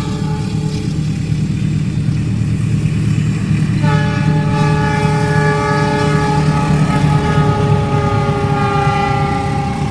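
Diesel locomotive horn sounding a chord of several notes, a blast ending just after the start and a long held blast from about four seconds in, over the heavy rumble of the train's engine close by.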